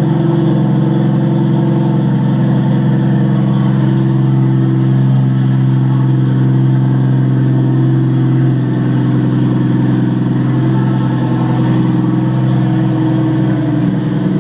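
Turbocharged 2JZ inline-six of a Lexus IS300 idling steadily on its first start after an engine rebuild, dropping slightly in level about eight and a half seconds in.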